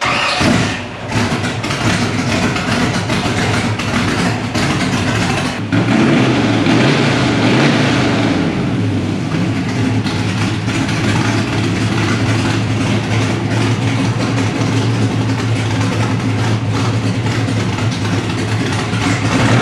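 A 327 small-block Chevy V8 running on one of its first starts after a ground-up build. It gets louder about six seconds in, then runs steadily.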